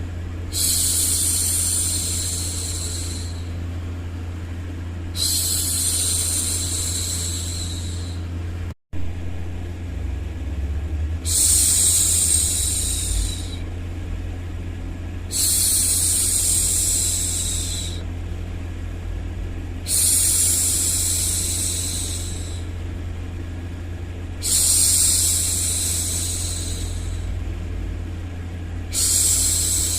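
A woman's voice shushing ('shhh') over and over, each long hush lasting about two to three seconds and repeating every four to five seconds, over a steady low hum. The sound drops out for an instant about nine seconds in.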